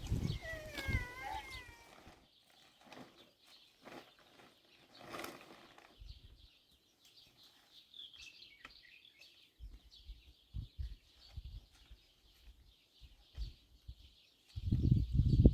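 A short, wavering animal call in the first two seconds, then faint scattered clicks and low thumps that grow louder near the end.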